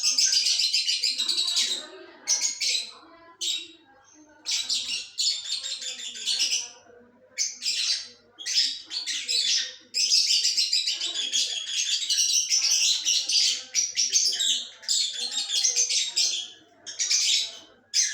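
Lovebirds chattering: repeated bouts of rapid, high-pitched chirping with short gaps between them.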